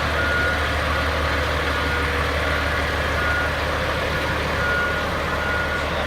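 Fire truck engine idling with a steady low rumble, while a high electronic warning beeper sounds in short beeps at uneven intervals.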